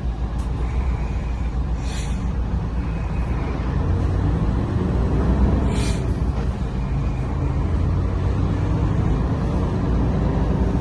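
Engine of a refrigerated wing truck running steadily with a low rumble.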